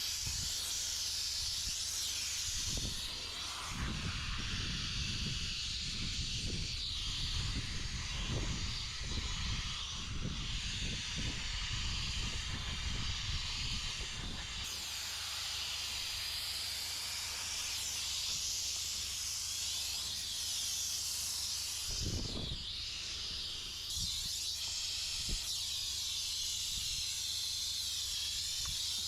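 Steam cleaner jetting steam through its nozzle: a steady high hiss. Irregular low thumps and rumbles come in for about ten seconds from about 4 seconds in, and once more briefly about 22 seconds in.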